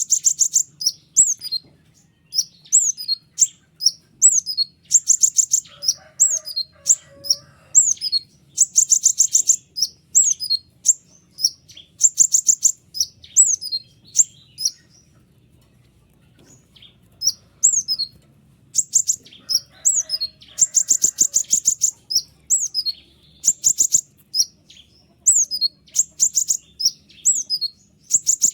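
A konin songbird singing: a fast series of sharp, high, down-slurred chirps broken by short, rapid, buzzy trills (the 'ngeriwik'). The bird pauses for a couple of seconds about halfway through.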